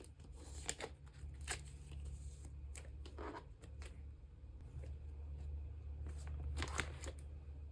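Photocards and plastic sleeves being handled: soft rustling with a few short, crisp crinkles and clicks of plastic, the last one near the end the loudest, over a low steady hum.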